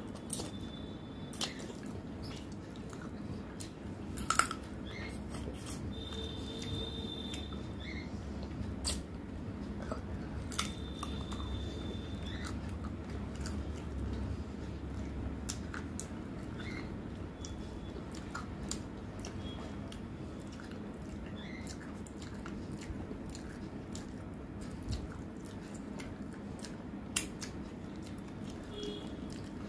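Close-up chewing and mouth sounds of a person eating rice and chicken curry by hand, with scattered sharp clicks and smacks and fingers mixing rice on a steel plate.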